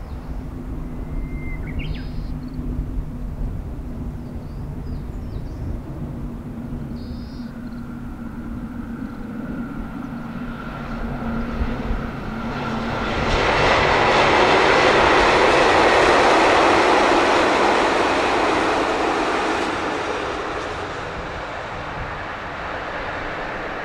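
Diesel limited express railcar train approaching with a low engine hum, then passing with a loud rushing of wheels on rail about halfway through, which fades over the last few seconds.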